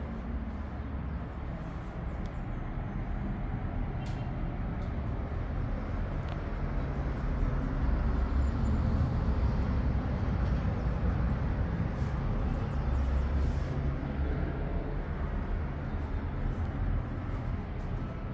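Steady low rumble of outdoor background noise, getting louder in the middle.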